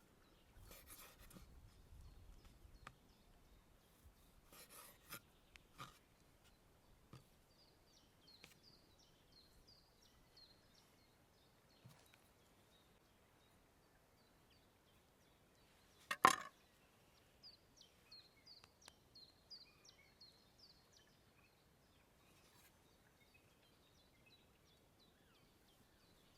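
Small birds chirping in quick series of short high calls, with a few soft rustles early on. A single sharp knock about sixteen seconds in is the loudest sound.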